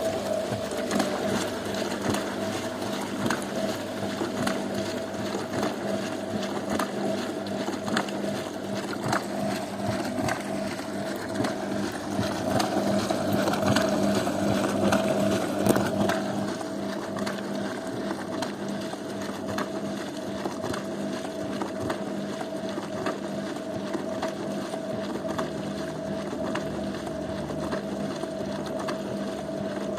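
Zanussi washing machine running: a steady motor hum with a higher steady whine over a busy rattling noise full of small clicks. It grows a little louder about twelve seconds in and eases back after a sharp knock around sixteen seconds.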